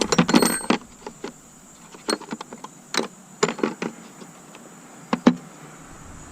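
Irregular metallic clinks and rattles from hand tools and metal parts being handled, with a cluster of clatter near the start and a few sharp knocks spread through the rest.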